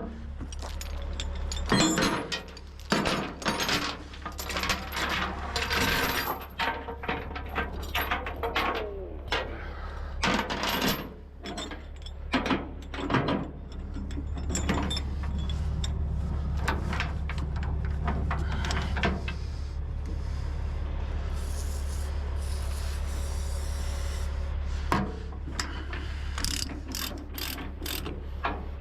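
Irregular metal clanks, scrapes and ratcheting as tie-down chains and a ratchet chain binder are handled and tightened, over a steady low hum.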